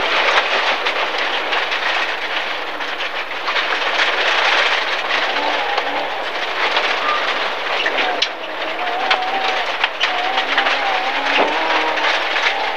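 Inside the cabin of a 1.4-litre MG ZR rally car driven hard on a gravel stage: the engine running under load over a steady roar of tyres and stones rattling against the underbody. A fainter wavering engine tone comes through from about halfway.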